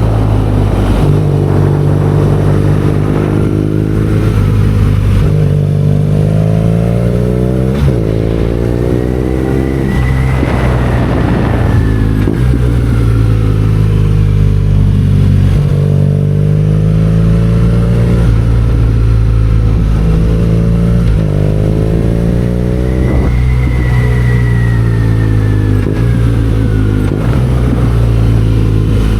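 BMW R nineT Scrambler's 1170 cc air/oil-cooled boxer twin under way. The engine pitch climbs under acceleration and drops at gear changes, twice, with steadier cruising between. A faint high whine rises and falls twice.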